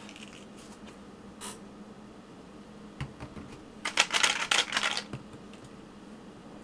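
A burst of rapid, scratchy clicking about a second long, starting about four seconds in, with a few fainter ticks before it.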